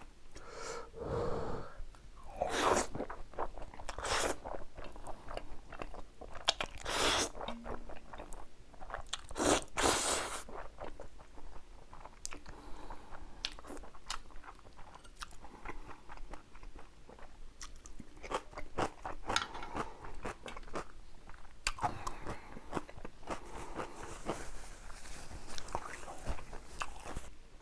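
Close-miked eating of spicy jjapagetti noodles with kimchi: several loud crunching bites in the first ten seconds, then steady, softer wet chewing.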